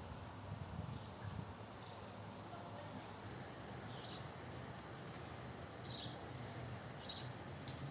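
Small birds giving short, scattered chirps, about five in all, spaced a second or so apart, over a steady low background rumble.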